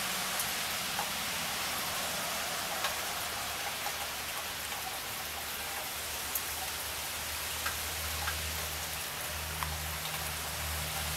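Steady rain falling, an even hiss with scattered sharp ticks of drops striking. A low steady hum comes in about eight seconds in.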